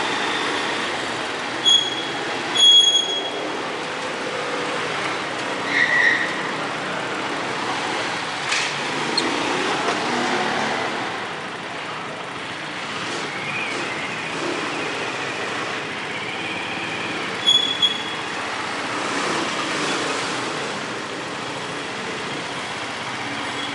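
Steady running noise of a moving vehicle, with short high electronic beeps a few times.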